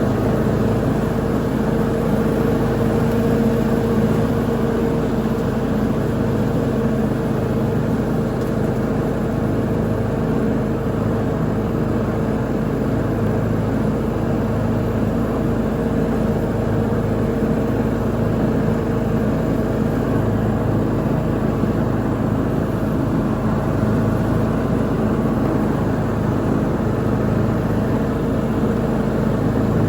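Lawn mower engine running steadily under load while mowing, with an even, unbroken drone.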